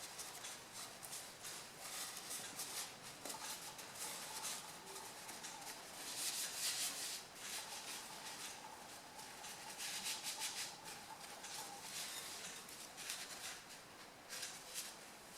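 Cloth rag wiping and scrubbing the oil filter mounting face on the engine, in a series of soft rubbing rustles that come in stronger strokes now and then.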